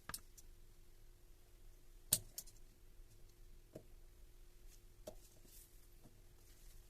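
A few scattered light clicks and knocks, the loudest about two seconds in, over a faint steady hum.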